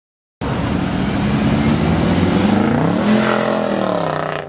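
Car engine revving hard under acceleration, its pitch climbing to a peak about three seconds in and then falling away. The sound starts and stops abruptly.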